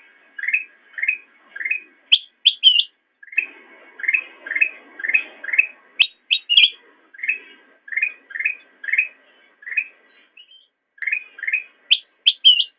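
Kutilang emas bulbul singing: a chattering series of short repeated notes, about two a second, broken three times by quick clusters of three sharp, higher notes.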